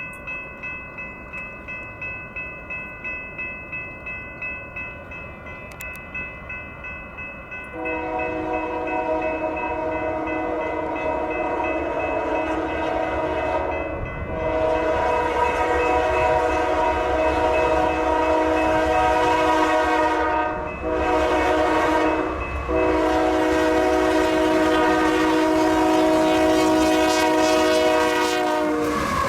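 Union Pacific freight locomotive's chord horn blowing the grade-crossing signal: two long blasts, a short one, then a long one, starting about eight seconds in. Before it, faint ringing about twice a second.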